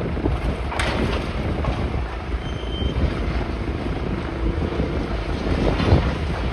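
Wind buffeting the microphone over a steady background rumble, with a couple of brief knocks.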